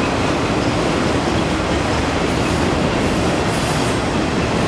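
Freight train of autorack cars rolling past at close range: a steady, unbroken noise of steel wheels running on the rails.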